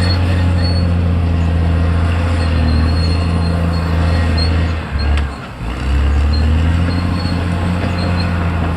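Caterpillar D6R XL bulldozer's diesel engine running loudly and steadily under load, dipping briefly about halfway through and then picking up again, with occasional short high squeaks.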